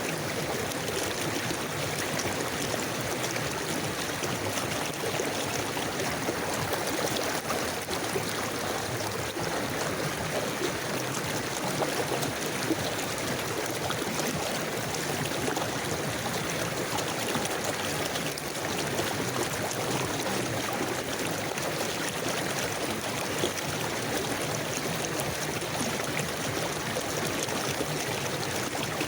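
A river flowing steadily over rocks, with a gurgling, trickling rush of water.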